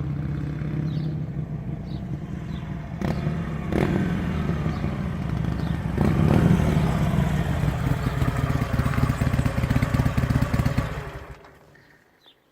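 Harley-Davidson 883 Iron's air-cooled V-twin running loud through a drilled muffler, blipped up at about three seconds and again at about six seconds, then held at a higher, rougher note before dying away about a second before the end. Faint bird chirps sound in the background.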